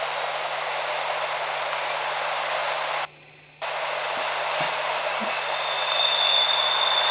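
Freight train cars rolling past in a steady rush of wheel and rail noise. It is heard through a camcorder's small playback speaker, with little bass. The sound cuts out briefly about three seconds in, and a thin high wheel squeal comes in past the middle and holds steady.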